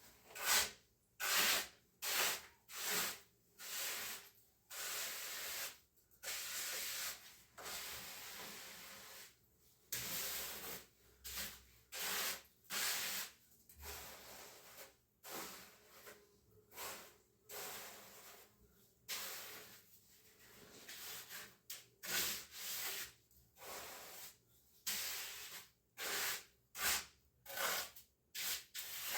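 Repeated scraping strokes of a hand tool rubbed over a rough surface, coming at an uneven pace of roughly one or two a second, some short and some drawn out.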